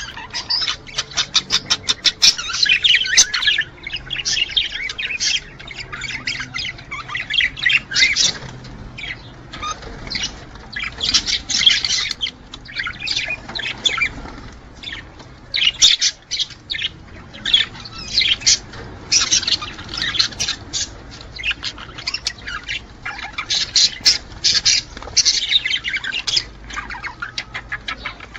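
Budgerigars chattering, warbling and squawking in rapid, overlapping bursts of chirps and clicks, with brief lulls between bursts.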